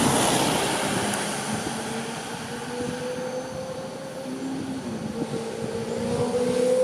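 Sport motorcycle flying past, loudest right at the start and fading away over the next few seconds. From about four seconds in, another engine note comes in, climbing slightly in pitch and growing louder as the next bike approaches.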